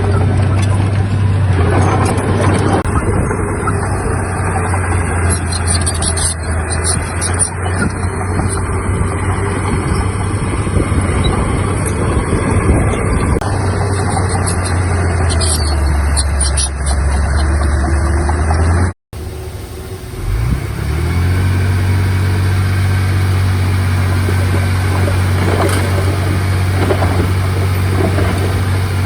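Heavy diesel earthmoving machinery running steadily, with a deep engine drone. An abrupt cut about two-thirds of the way through, after which an engine runs on with a steady hum.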